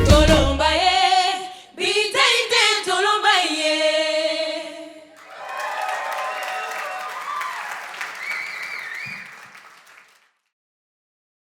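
The band's accompaniment drops out about a second in, leaving several women's voices singing a closing phrase in harmony without instruments. Halfway through, the singing gives way to applause and cheering, which fades out.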